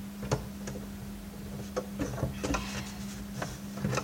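Scattered light clicks and knocks of a drill bit on an extension tapping against the plastic vacuum cleaner housing while it is being worked down onto a recessed screw head. A steady low hum lies underneath.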